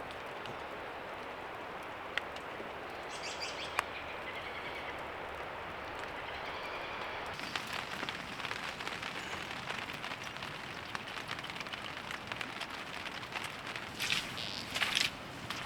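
Steady rain falling, with a few sharp drips or ticks early on and denser crackling ticks from about halfway. A short louder rustling burst comes near the end.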